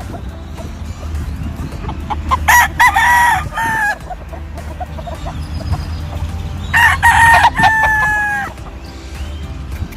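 Game roosters crowing twice, about two and a half seconds in and again about seven seconds in, each a long stepped cock-a-doodle-doo, over a low steady rumble.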